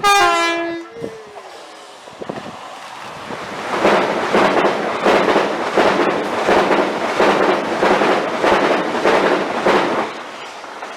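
A train sounds a short horn blast of two notes, high then low. About four seconds later its wheels beat over the rail joints as the train passes, in an even rhythm of about two beats a second that fades away near the end.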